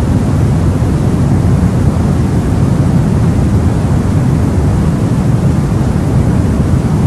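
Baby-sleep white noise: a steady, unbroken hiss-like noise, heaviest in the low range, with no change in level or pitch.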